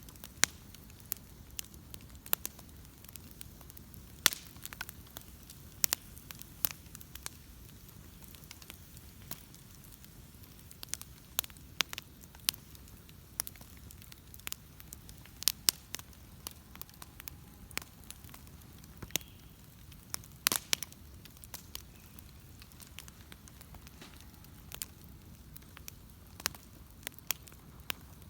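Wood bonfire crackling: sharp, irregular pops and snaps of burning wood over a faint low rumble, with the loudest cluster of pops about twenty seconds in.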